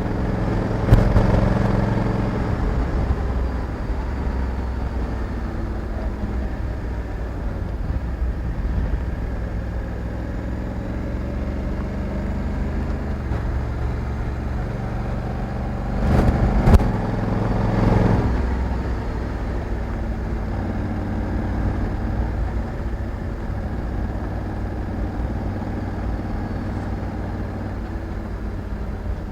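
Honda Africa Twin 1100's parallel-twin engine running under way, its revs shifting up and down. Sharp knocks come about a second in and twice more around the middle.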